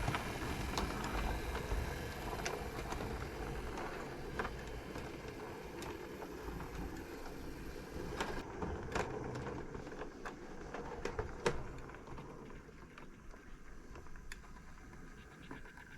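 Model railway locomotive running on the track: a small electric motor and wheels rolling on rails, with occasional sharp clicks, growing quieter in the second half.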